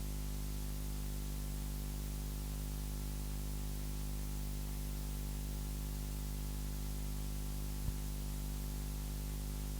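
Steady electrical hum with hiss, the noise floor of the sound system, with a single faint click about eight seconds in.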